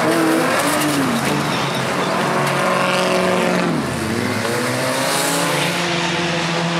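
Several banger racing cars' engines running hard as they race round the oval towing caravans, their notes rising and falling as they rev and pass. One engine note drops away about four seconds in.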